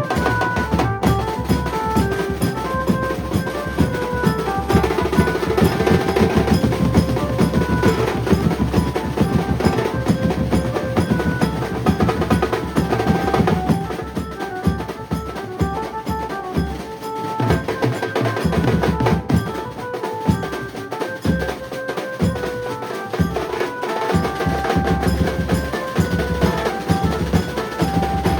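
Maharashtrian banjo band playing: dense, driving drum strokes under a melody of short, quick notes on the lead instrument.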